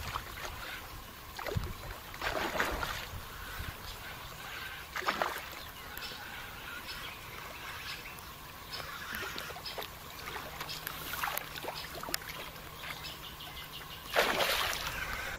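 Rain falling on a pond: a steady hiss of drops pattering on the water and lily pads, with a few louder splashes and a stronger rush of sound near the end.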